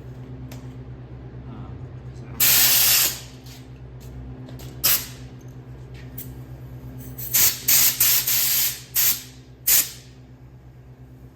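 Several short, loud bursts of hissing, like a spray or an air jet, over a steady low machine hum.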